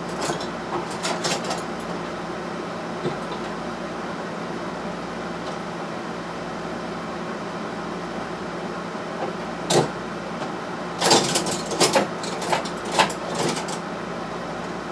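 Sharp metal clicks and knocks of hand tools working on small-engine mini bike parts, one loud knock about ten seconds in and a cluster of them a second later, over a steady background hum.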